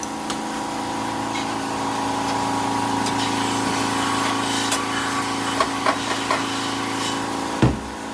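Workshop machinery running with a steady hum, with scattered light clicks and one louder knock near the end.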